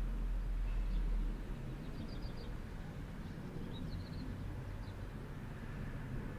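Outdoor ambience: a low rumble, likely distant traffic, that eases about a second in, with two short runs of quick, high bird chirps in the middle.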